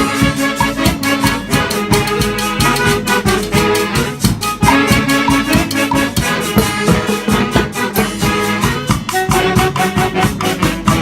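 Salsa-style tropical dance music from a band with a brass section playing riffs over steady Latin percussion and bass.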